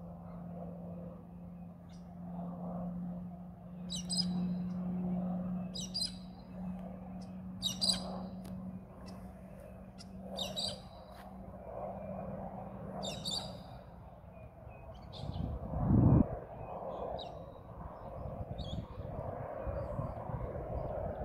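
A bird calling in short high chirps, a call about every two seconds, over a steady low drone of a distant propeller aircraft that fades out about two-thirds of the way through. A brief low rumble follows shortly after.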